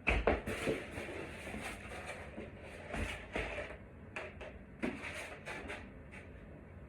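Irregular clicks, scrapes and rustles of hands working on electrical wire, cutting back the insulation with a knife. A louder knock comes right at the start and another about three seconds in.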